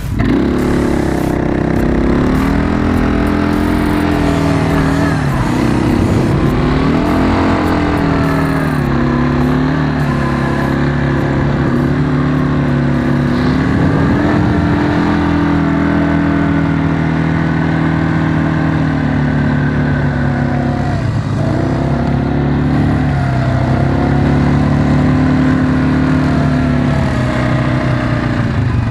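Quad bike engine running under way, its pitch rising and falling as the throttle is opened and eased off, with dips in engine speed a few seconds in and again past the middle.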